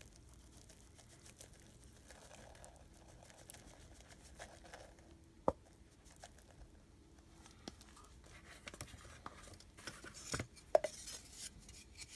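Hydrocal plaster powder being slowly added to water in a rubber mixing bowl: faint pattering and rustling, with a few sharp taps, the loudest about five and a half seconds in and again near the end.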